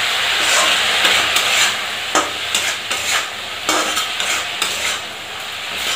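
Green peas and ground spices sizzling in a kadhai as a spatula stirs them, scraping against the pan in repeated strokes.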